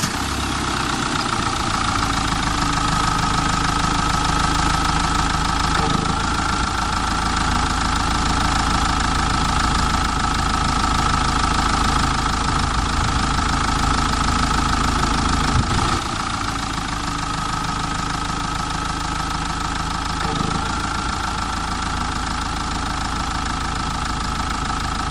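Heavy vehicle engine running steadily at idle, with a low rumble and a steady high whine; it drops slightly in level about two-thirds of the way through.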